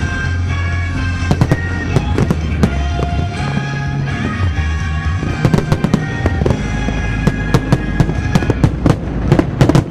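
Fireworks bursting and crackling in quick succession over music, with the bangs coming thicker in the second half.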